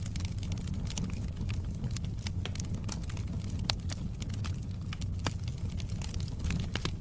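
Wood fire burning steadily with a low rumble, crackling and snapping in many small irregular pops.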